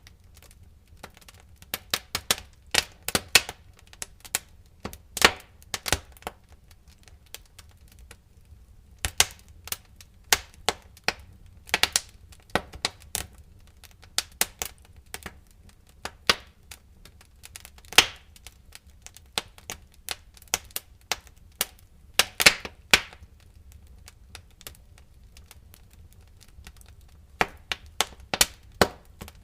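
Wood fire crackling in a fireplace: irregular sharp pops and snaps, sometimes several in quick succession and sometimes single, with a couple of quieter stretches, over a faint low rumble.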